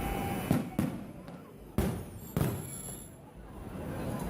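Fireworks display bursting: four sharp bangs, two close together in the first second, then two more at about two and two and a half seconds, each with a short rolling echo. A firework's whistling tone fades out right at the start.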